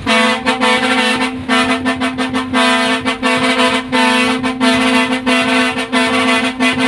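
Truck air horn sounding a greeting: one steady tone held throughout, chopped into rapid stuttering pulses several times a second.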